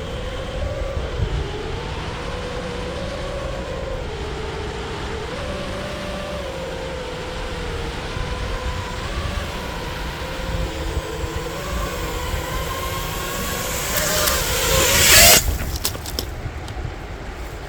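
FPV quadcopter's motors and propellers whining, the pitch wavering up and down with the throttle, over low wind rumble. Near the end a loud rush of noise builds for about a second and then cuts off suddenly.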